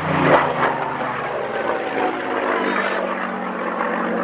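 Propeller-driven aircraft engine droning steadily, with a brief louder burst of noise about a third of a second in.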